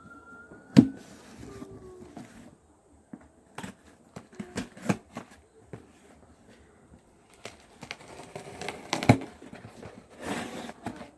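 Cardboard shipping box being cut and opened with a utility knife: scattered clicks and knocks, the loudest a sharp knock about a second in, then denser scraping and tearing of tape and cardboard near the end.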